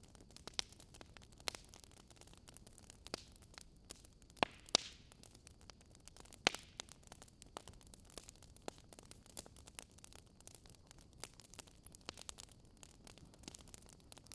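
Wood fire crackling in a fireplace: a soft, steady hiss with irregular sharp pops and snaps, a few louder ones about four and a half and six and a half seconds in.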